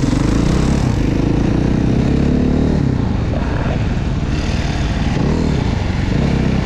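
Supermoto motorcycle engine revving under hard acceleration, pitch rising, dropping off about three seconds in, then climbing again.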